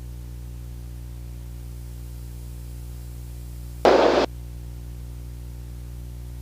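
Steady low drone of the Beechcraft Bonanza's piston engine, with a short burst of static about four seconds in, lasting under half a second.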